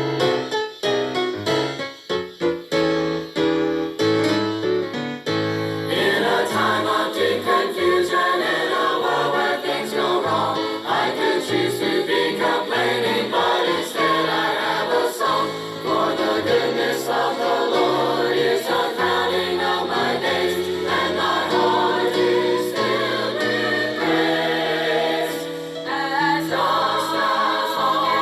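A piano plays a short introduction, then a choir comes in about six seconds in, singing a gospel song with piano accompaniment.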